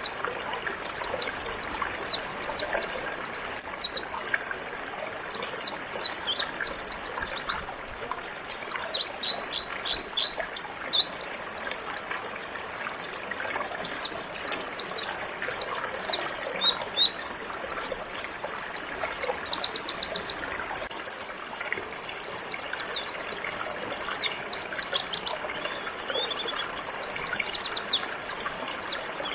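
A white-eye (pleci) singing long runs of rapid, high twittering phrases with short pauses between them, over the steady rush of a flowing river.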